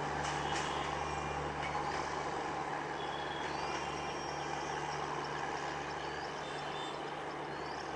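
Broad-gauge passenger train with LHB coaches rolling away along the track: a steady rumble with a constant low drone.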